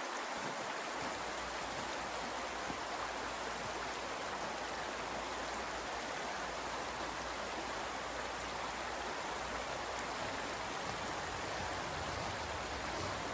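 A steady, even rushing hiss with no gusts or breaks.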